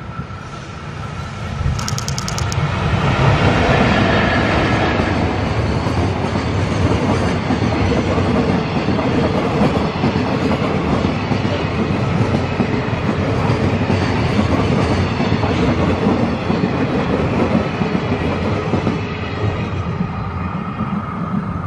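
EF64 electric locomotive passing at the head of a long freight train of container wagons, followed by the wagons' wheels rolling by in a steady clickety-clack rumble. The sound builds over the first few seconds, with a short run of sharp clicks about two seconds in, and eases near the end as the last wagons pass.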